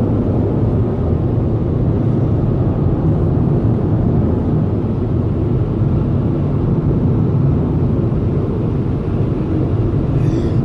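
Automatic car wash air-dryer blowers running, heard from inside the car: a steady, loud, low air noise. The dryer is weak, leaving the rear window beaded with water.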